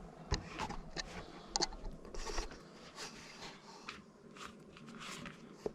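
Irregular small clicks, taps and short scrapes of metal motorcycle luggage-mounting hardware being handled and fitted, with the sharpest knock about a third of a second in.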